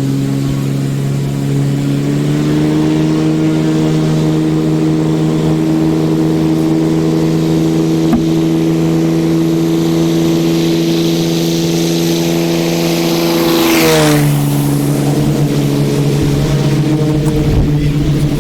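Propeller aircraft engine drone that passes close with a whoosh about 14 seconds in, its pitch dropping suddenly as it goes by.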